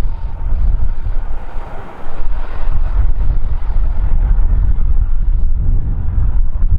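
Strong wind buffeting the microphone in gusts, over the rushing noise of a jet airliner's engines, which swells around the middle.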